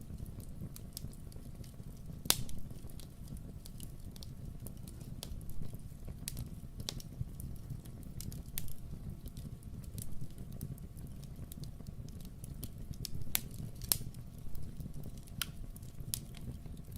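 Wood fire crackling in a fireplace: irregular sharp pops and snaps, a few louder ones about two seconds in and near fourteen seconds, over a steady low rumble.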